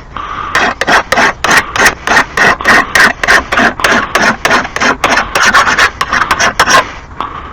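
Rapid rhythmic scraping or rubbing strokes, about three a second, that stop shortly before the end.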